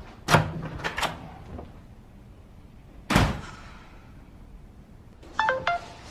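A door being opened with a few latch clicks, then shut with one solid thud about three seconds in. Near the end a short electronic chime of stepped tones sounds, a phone's message alert.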